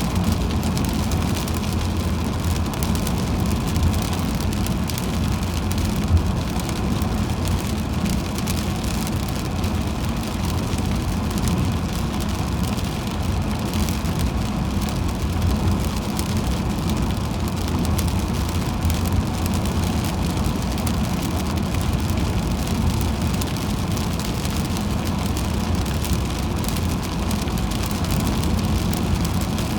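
A car driving on a wet highway in the rain: steady road and tyre noise with the hiss of rain and spray.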